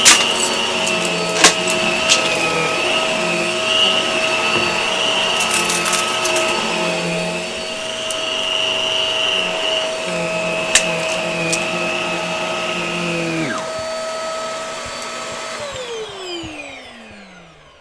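Hart vacuum cleaner running with a steady whine and hum, with a few sharp clicks of debris being picked up. About thirteen seconds in part of the sound cuts out, and near the end the motor is switched off and winds down, its pitch falling away.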